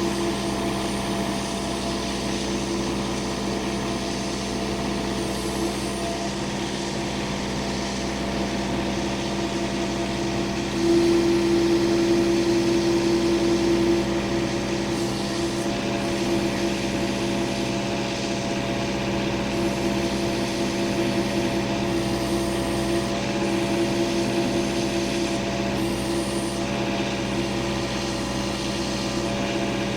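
A machine's engine runs steadily. About eleven seconds in it gets louder and its tone brightens for about three seconds, as under load, then it settles back.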